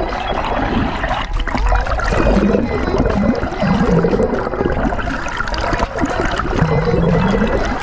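Water gurgling and sloshing close to the microphone, with a few short low pitch glides.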